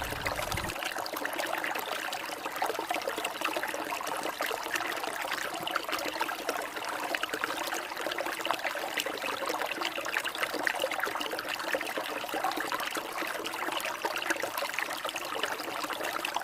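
A waterfall's water pouring and splashing steadily.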